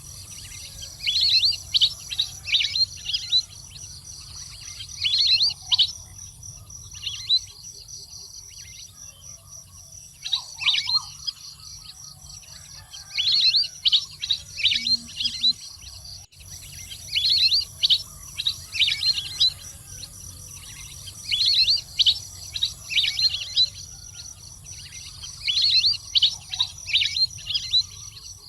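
Water bird calling in bouts of rapid, high chirping notes, each bout a second or two long and repeating every few seconds, over a steady high-pitched insect-like tone.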